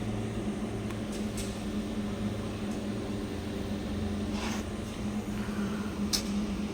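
Steady low electrical hum of running machinery, with a few short faint clicks.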